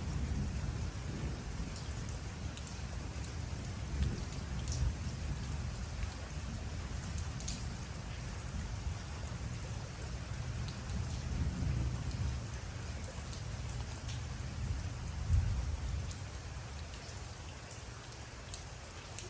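Steady rain falling, with scattered sharp drop ticks and a low rumble underneath that swells a few times and eases near the end.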